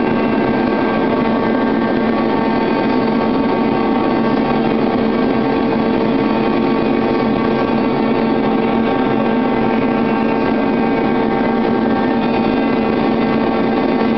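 Vertical glass-washing machine running: a steady machine drone with several constant tones and no change in pace.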